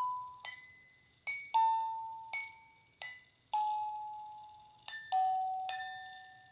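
Slow lullaby melody played as single bell-like chime notes, about one every half second, each struck sharply and ringing away.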